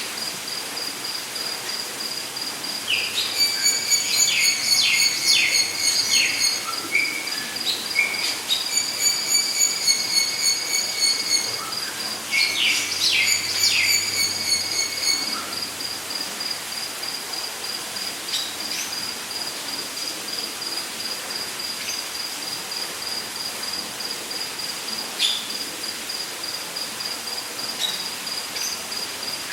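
Rainforest ambience: an insect's steady, pulsing high trill, with several rapid clusters of bird calls in the first half that then die away. An even hiss runs underneath.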